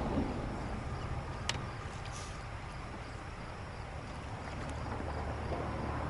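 Steady low rumble of wind and water around a small fishing boat, with one sharp click about one and a half seconds in.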